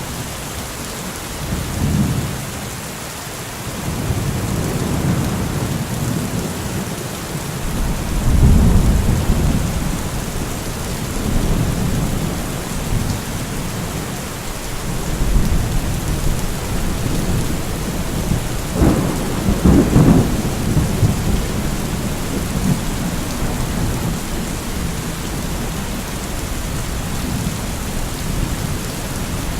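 Steady heavy rain with rolling thunder: several low rumbles swell and fade, the loudest around eight seconds in, and a sharper clap of thunder near twenty seconds.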